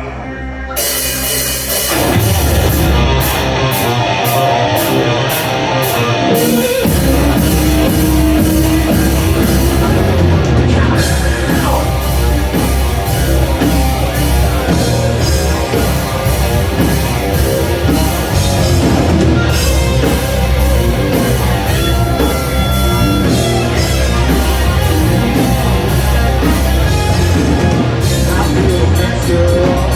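Live rock band of electric guitar, bass and drum kit starting a song with an instrumental intro. Guitar comes in just under a second in, drums and bass join at about two seconds with steady cymbal hits, and the full band plays on from about seven seconds.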